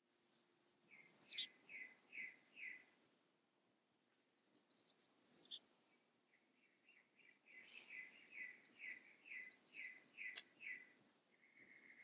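Songbirds chirping: phrases of quick repeated chirps, a few a second, mixed with short high trills, with brief pauses between phrases.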